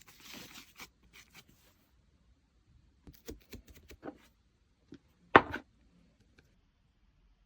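Hands playing with slime: a soft squishing rustle in the first second, then scattered sticky clicks and pops, the loudest a little past five seconds in.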